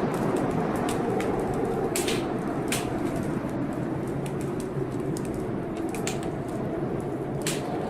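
Wood fire crackling in a fireplace, with sharp pops about two seconds in, again shortly after, and near the end, over steady blizzard wind.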